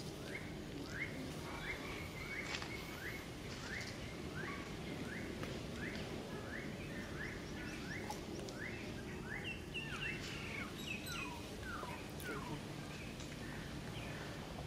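A bird calling over and over, a short upward-sweeping chirp about twice a second over steady outdoor background noise. The calls thin out and stop after about twelve seconds.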